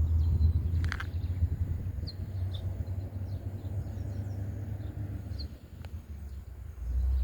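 Birds chirping: short, high, falling calls every second or so, over a steady low rumble that drops away briefly near the end.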